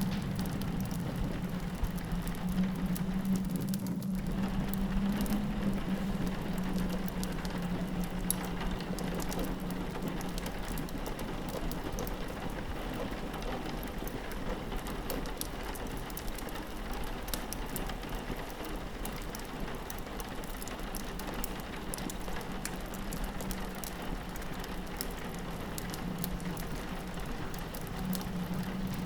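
Rain pattering on a window, a steady hiss, with a fireplace crackling through it in many small sharp pops. A low steady drone runs underneath.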